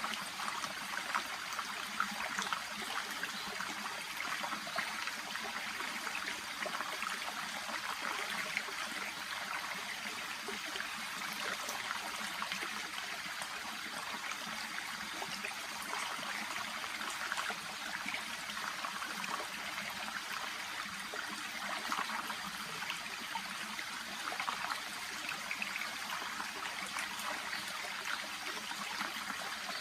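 Shallow brook (seseragi) babbling steadily, a continuous trickling rush of water with small splashes flickering through it.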